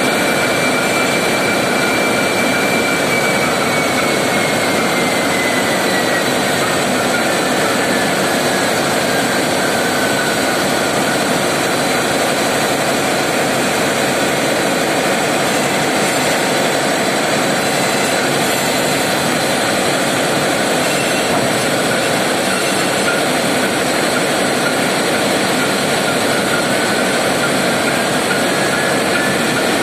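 Large diesel engines of a river passenger launch running loud and steady in the engine room, with a high whine that slides down in pitch a few seconds in and climbs again near the end.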